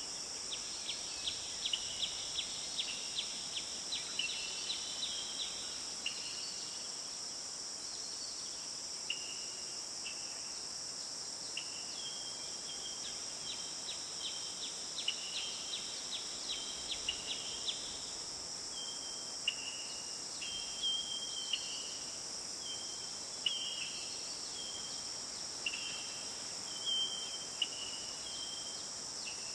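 Forest ambience: a steady high-pitched insect drone, with birds calling short, level notes and quick trills that repeat every second or so.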